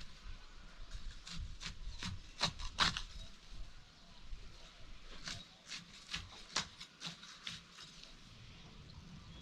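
Irregular rustling, scraping and tearing of shallow-rooted weeds being pulled up by hand, in two clusters of snaps, the loudest about 2 to 3 seconds in.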